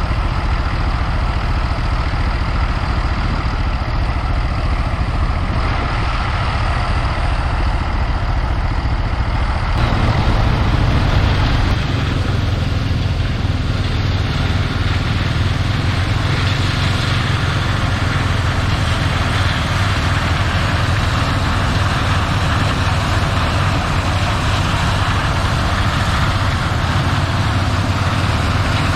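Heavy farm machinery engine running steadily during corn harvest unloading, its low engine note shifting about ten seconds in.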